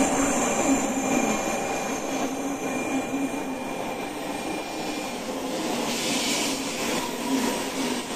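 Shinkansen bullet train rolling slowly into the station as it arrives, its cars passing with a steady rumble and wheel hiss. A thin high tone runs under it and fades out about five seconds in.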